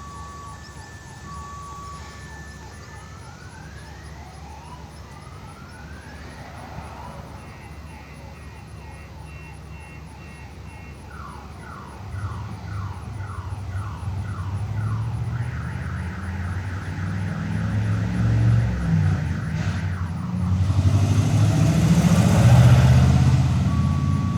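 A distant electronic alarm siren cycling through its patterns: alternating high-low tones, rising whoops, a fast warble, then rapid repeated pulses. A motor vehicle approaches about halfway through and passes loudly near the end.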